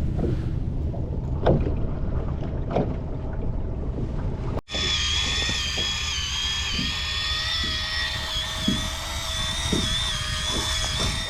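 Wind and water noise on a small boat with a few sharp knocks. After a brief cut, an electric fishing reel's motor whines steadily as it winds in a jig.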